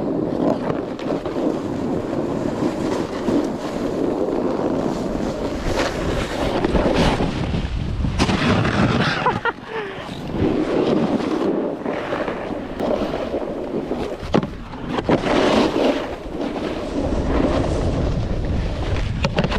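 A snowboard sliding and scraping over snow during a run downhill, with wind rushing over the microphone, surging and easing in waves, and a couple of sharp knocks partway through.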